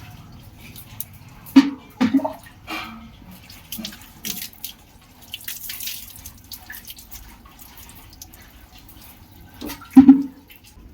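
Water splashing and running during a dog's bath as its soaked coat is wetted and rubbed, with a few sudden louder splashes or knocks, the loudest near the end.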